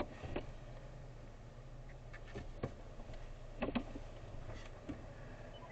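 Steady low hum of a car heard from inside the cabin, with a handful of irregular clicks and knocks, the sharpest right at the start and another cluster a little before four seconds in.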